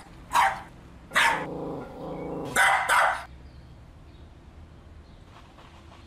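A dog barking several times, with one longer, drawn-out bark in the middle. The barking stops about three seconds in.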